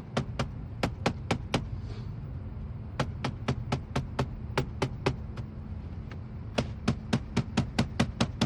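Broom tractor's dusty outer air filter element being banged out to knock the dust loose: rapid sharp knocks, about four a second, in three runs with short pauses between them.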